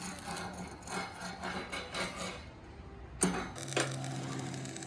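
Workshop tool noise: repeated scraping or rubbing strokes for about three seconds, then two sharp knocks about half a second apart, followed by a steady low hum.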